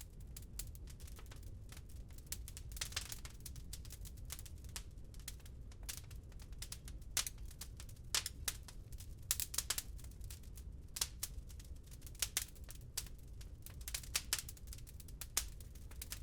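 Wood fire crackling in a fireplace: frequent irregular sharp pops and snaps over a steady low rumble, coming in from silence right at the start.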